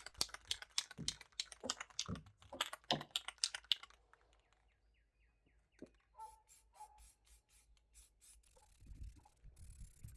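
Aerosol primer can being shaken, its mixing ball rattling in quick clicks for about four seconds, then stopping; a few fainter clicks follow.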